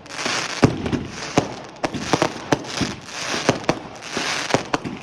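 Fireworks going off: a string of sharp bangs at irregular intervals, about one to three a second, over a continuous hissing crackle.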